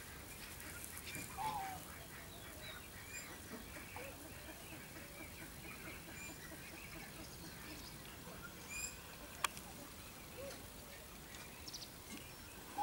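Faint bird chirps and short calls, scattered and irregular, with a single sharp click about nine and a half seconds in.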